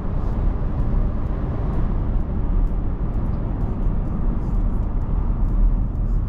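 Steady engine and road noise inside a moving car, a continuous low rumble.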